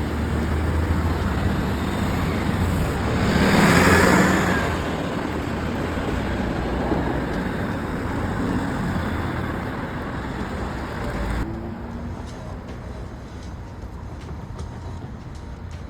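Road traffic running steadily, with one vehicle passing close and loud about four seconds in. Near the end it drops suddenly to a quieter traffic background.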